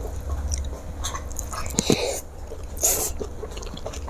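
Close-miked eating sounds: a mouthful of food being chewed, with wet mouth smacks and clicks and two louder smacks about two and three seconds in, over a steady low hum.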